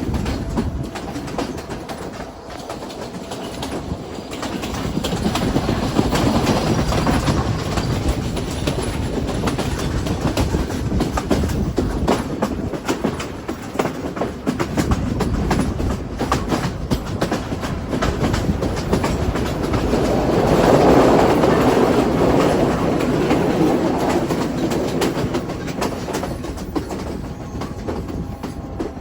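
Moving train: a steady rumble with the clickety-clack of wheels over rail joints, growing louder twice, about a fifth of the way in and again about two-thirds through.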